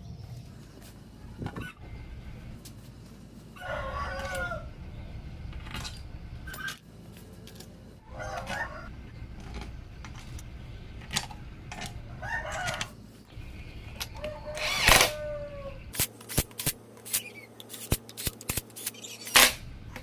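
A chicken calling several times, each call about a second long, over a steady low hum. Near the end comes a quick run of sharp clicks and knocks.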